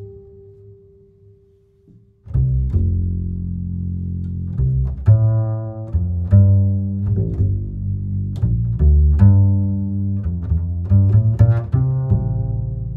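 Loud, bass-heavy music from a parade sound-system truck. A held note fades into a brief lull, then about two seconds in the track comes back in with deep, plucked-sounding bass notes and sharp percussive hits.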